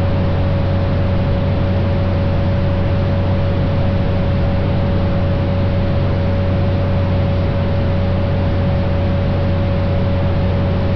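Cockpit drone of a 1956 Cessna 172's six-cylinder Continental engine and propeller in steady cruise descent, a constant low hum with airflow hiss over it. A thin steady whine sits above it.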